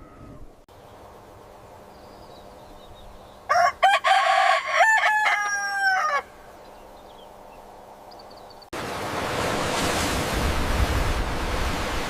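A rooster crowing once, a single cock-a-doodle-doo of about three seconds. A few seconds later a steady rushing noise starts abruptly and keeps on.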